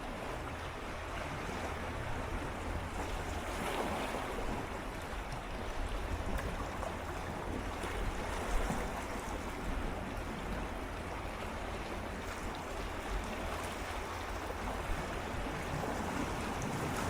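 Gentle sea waves swirling and lapping against shoreline rocks, a steady wash of water with fine crackling fizz, under a low rumble of wind on the microphone.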